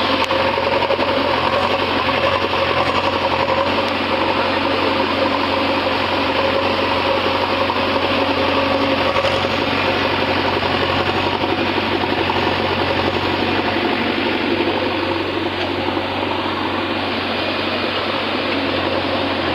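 A steady engine drone at an even pitch, with no change in speed.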